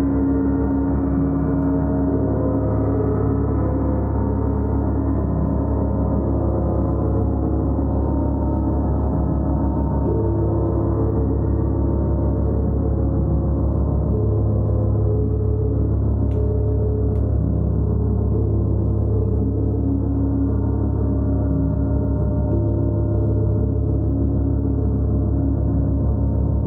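Gong played as a continuous sustained wash: many overlapping low tones, slowly shifting, with no single strike standing out.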